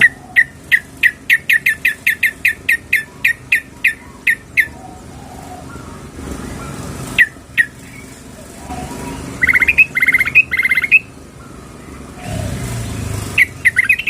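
Sooty-headed bulbul (trucukan) calling: a quick run of about eighteen sharp chip notes, a pause with two more notes, then bubbly trilled phrases and a fresh run of notes near the end. This is a female's call to a male, used to stir males into song.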